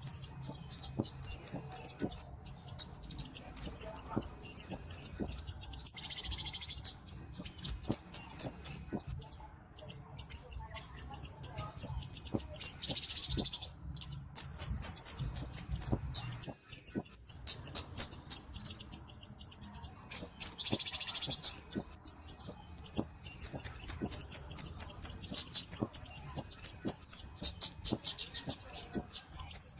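Kemade flowerpecker (cabe-cabean) calling: rapid runs of high, thin ticking chips in bursts of a second or more, broken by short pauses.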